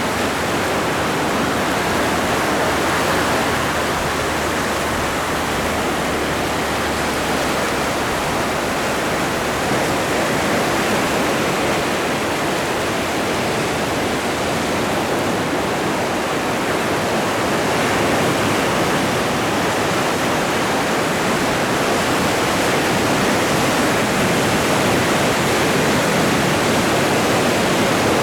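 Atlantic Ocean waves and surf: a steady, unbroken wash of water with no single crash standing out, growing slightly louder in the second half.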